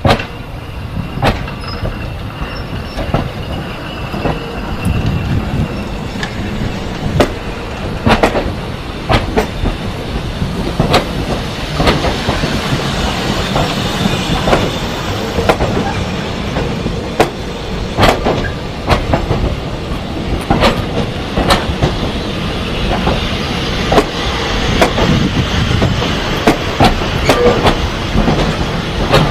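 Train rolling along the rails with a steady rumble, the wheels clicking sharply and irregularly over rail joints.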